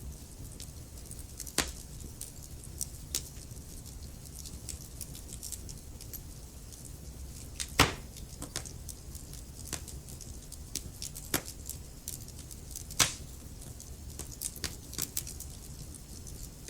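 Wood fire crackling in a fireplace: scattered small crackles over a low steady rumble, with four sharper pops, the loudest about eight seconds in.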